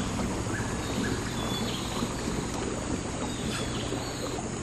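A tour boat's motor running steadily on the river, with a few short high chirps over it.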